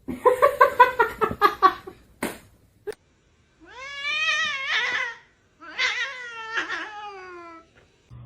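Domestic cat vocalising: a quick stuttering run of short chirp-like calls, two sharp clicks, then two long drawn-out meows, the second sliding downward in pitch.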